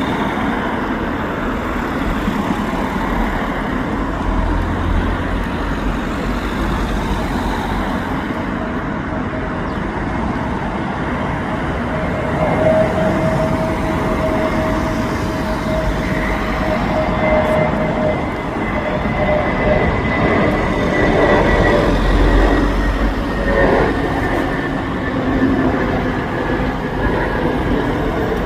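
Airbus A320 jet engines running: a loud, steady rush of jet noise. From about the middle, two whining tones appear and slowly fall in pitch.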